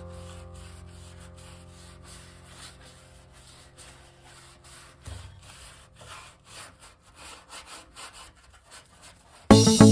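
A steady hum fades away over the first few seconds. Then come faint, irregular rubbing or scraping strokes, like hand work on a surface.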